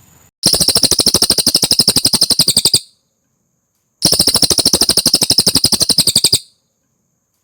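Cililin songbird singing a loud, fast trill of evenly repeated notes, twice, each bout about two and a half seconds long with a short pause between; this is a masteran recording used to tutor caged songbirds.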